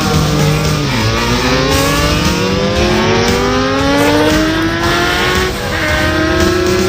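Racing motorcycle engine accelerating hard and shifting up through the gears: the pitch climbs, drops back at each shift (about three shifts) and climbs again.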